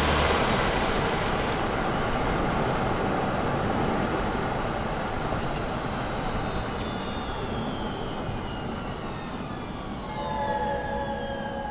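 Inside the cabin of a 2023 Toyota Highlander Hybrid as it slows: the low hum of the 2.5-litre four-cylinder stops just after the start, leaving road and tyre noise that slowly fades while the high whine of the electric drive falls in pitch. A few steady higher tones join near the end.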